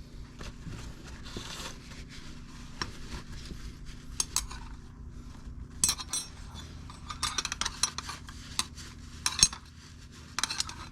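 Small steel parts from an ATV front differential's diff-lock clutch pack clinking and scraping as the compression ring is handled and cleaned. There are scattered sharp clicks that bunch together in the second half, with a brief rubbing near the start.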